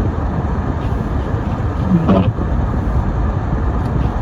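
Steady low rumble of road and engine noise heard from inside a car driving on a snowy road. About two seconds in comes one short, pitched squeak.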